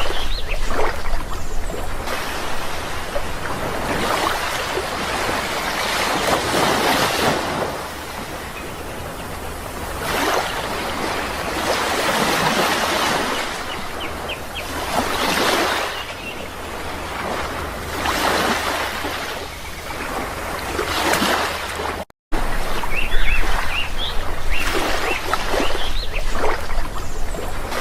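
Sea waves washing in and drawing back, the surf swelling and fading every few seconds, with a few brief bird chirps over it. The sound cuts out completely for a moment about two-thirds of the way through.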